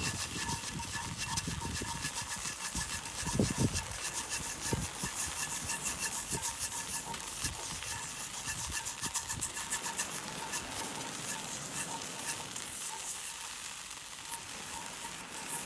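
Steady crackling and sizzling of seawater being boiled down over a wood campfire to make salt, with a few soft knocks.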